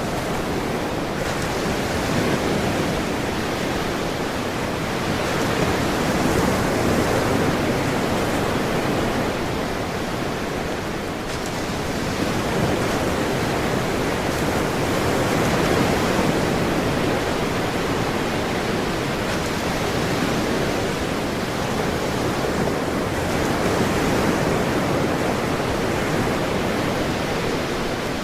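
Ocean surf: a continuous wash of breaking waves that swells gently in loudness every eight or nine seconds.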